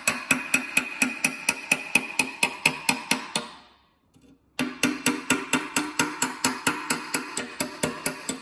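A hammer striking metal in a fast, even rhythm of about five blows a second, each blow ringing. The blows fade out after about three seconds, then start again abruptly about a second and a half later.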